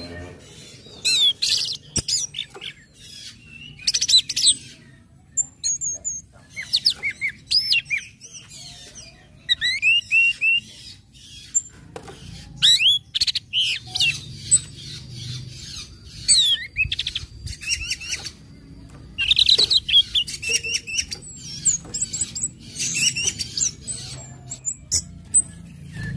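Orange-headed thrush singing: a rapid run of varied high whistled and chattering phrases, separated by short pauses.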